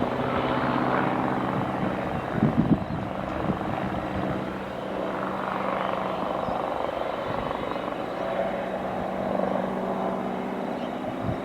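Twin-engine Airbus Helicopters EC135 T2+ helicopter in flight, its rotor and turbines making a steady hum of evenly spaced tones. A few brief low thumps come about two and a half seconds in.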